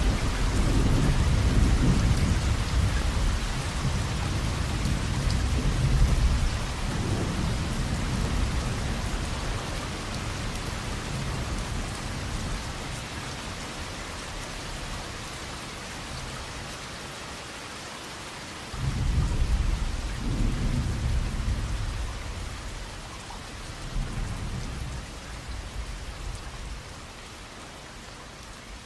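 Steady heavy rain hiss with rolling thunder. One long low rumble swells at the start and dies away over about seven seconds, and a second clap breaks in suddenly past the halfway point and rumbles off.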